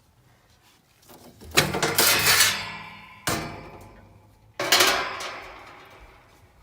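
Sheet-metal furnace cabinet panel clanking three times, each clank with a ringing tail that fades out.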